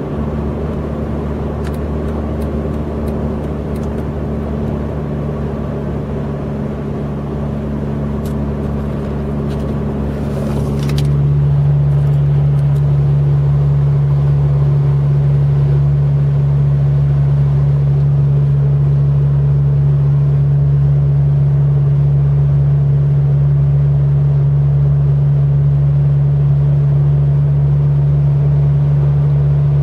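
Dodge Charger R/T's 5.7-litre Hemi V8 through glasspack mufflers, cruising at highway speed as heard inside the cabin. About eleven seconds in, the exhaust note changes and steps louder, then holds as a steady deep tone.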